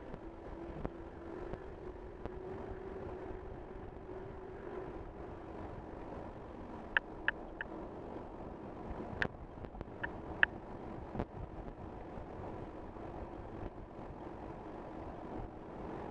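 Steady road and tyre noise of a 2023 Tesla Model Y driving, with a low steady hum. A handful of short, sharp ticks come about halfway through.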